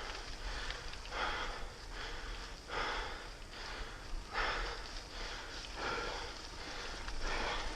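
A cyclist breathing hard while pedalling, one loud breath about every second and a half, over a steady low rumble.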